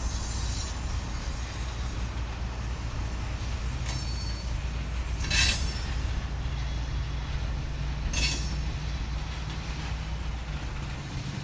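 Freight train's covered hopper cars rolling slowly past with a steady low rumble of wheels on rail. Twice, about five and eight seconds in, there is a short high-pitched wheel squeal.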